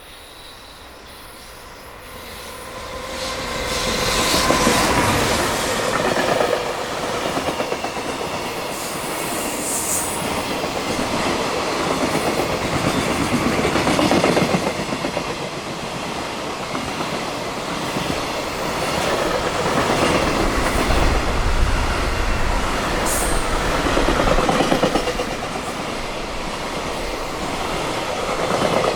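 EF210 electric locomotive hauling a high-speed freight train through at speed: it comes up quickly about three to four seconds in, then a long string of freight wagons rolls past, wheels clattering over the rail joints.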